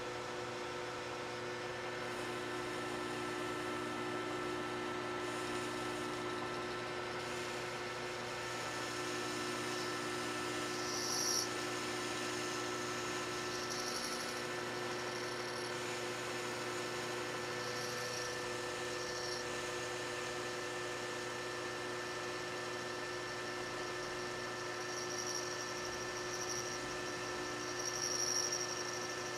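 Metal lathe running at steady speed, its motor and spindle giving a steady hum with several fixed tones, while a parting tool is fed into the spinning steel work: a faint high-pitched cutting whine comes and goes several times, strongest near the end.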